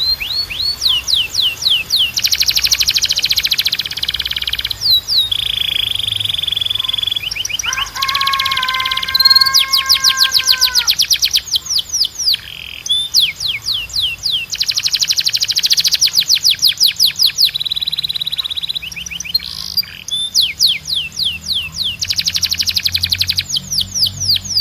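Canary singing a long, varied song. It runs through fast trills of rapidly repeated notes and steady held notes, with a lower, rolling passage about a third of the way in.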